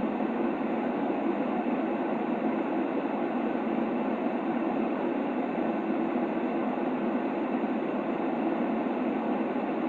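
Steady white noise for a baby's sleep, weighted toward the low end: a deep, even hiss that never changes, with nothing else in it.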